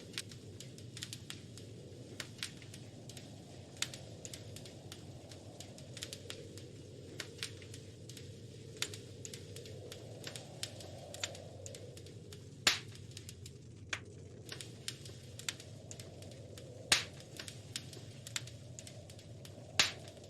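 Wood fire crackling in a fireplace: irregular sharp pops and snaps over a steady low burning hiss, with three louder pops in the second half.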